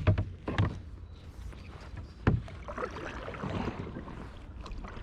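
Knocking and bumping of gear against a kayak, irregular, with one sharp knock about two seconds in, over a low steady rumble.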